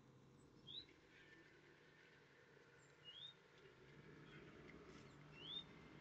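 A bird calling: three faint, short rising chirps, each about two and a half seconds apart.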